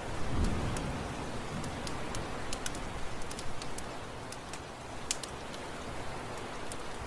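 Heavy rain falling steadily, with scattered sharp ticks. There is a brief low rumble in the first second.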